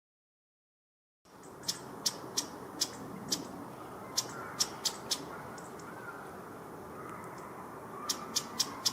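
Silence for about a second, then a small songbird's soft warbling song with clusters of sharp, very high ticking call notes, two to four a second at times.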